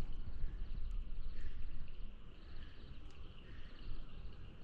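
Open-air hilltop ambience: a low, uneven rumble of wind on the microphone, with faint high chirping of birds and insects in the background.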